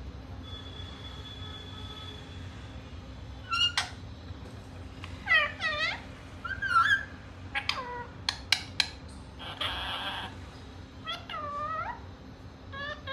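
Pet parrot giving a series of short, shrill calls, many swooping down and back up in pitch, with a few sharp clicks in between.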